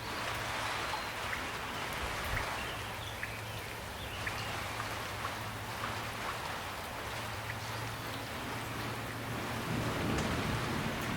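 Steady rain falling, with scattered single drops ticking on a surface and a faint low hum underneath.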